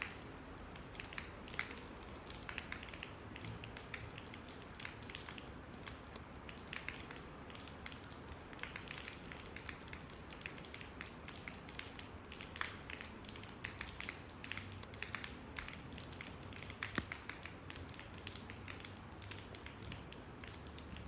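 Rain falling: a soft, steady hiss with many scattered, irregular drop ticks.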